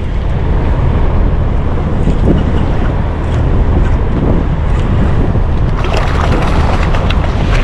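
Steady wind buffeting the microphone on open water, with waves in the background.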